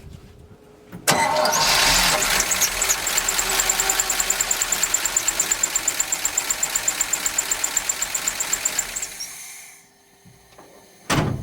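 1969 Chevrolet C50 truck's big-block V8 starting about a second in, running with a pulsing beat and a fast high ticking for about eight seconds, then shut off and running down. It runs with the oil pressure line off and no oil comes out of the port: the engine has no oil pressure. A single sharp knock near the end.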